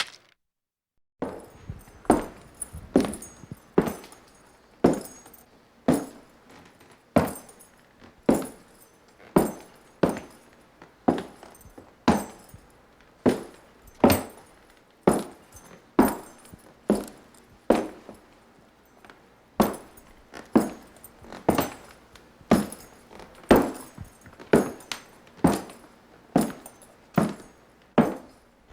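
A long series of sharp taps, about one a second, each with a short ring. It starts about a second in, after a moment of silence.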